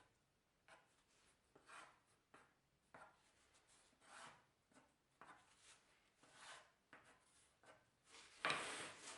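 Faint pencil strokes scratching on plywood parts, roughly one a second, with a louder scrape near the end.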